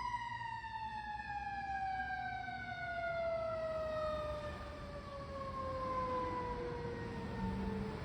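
A fire truck's mechanical siren winding down: one long wail sliding slowly and steadily lower in pitch as the rotor coasts to a stop, over a low rumble.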